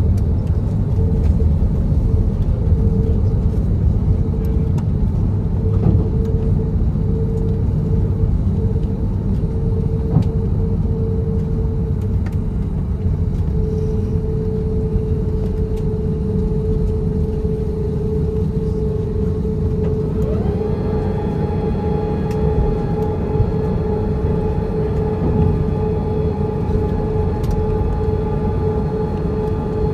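Airbus A330-900neo cabin noise: a steady low rumble with a steady whine over it. About two-thirds of the way through, a second, higher whine comes in, rises briefly and then holds steady.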